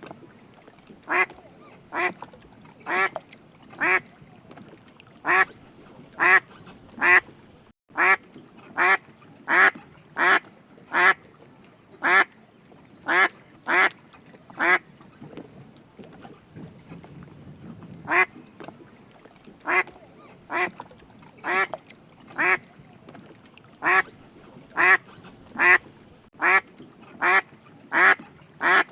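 A duck quacking over and over in short, single quacks, roughly one or two a second, with a pause of about two seconds a little past the middle.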